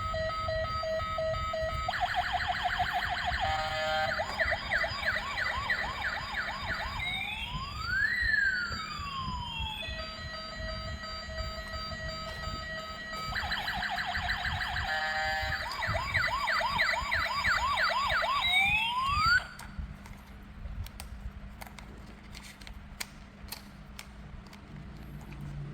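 Electronic siren sound effects from a toy vehicle's small speaker, cycling through beeping tones, fast warbling wails and rising-and-falling sweeps, the pattern playing twice before cutting off abruptly about 19 seconds in. Light clicks and taps follow to the end.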